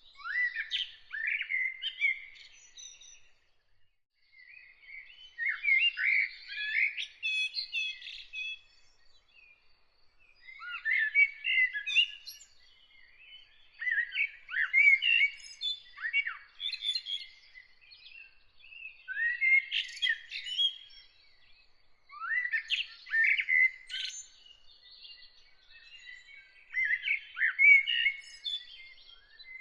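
A songbird singing in separate phrases of two to three seconds with short pauses between, about eight phrases in all. Behind it runs a faint, rapid, steady high note.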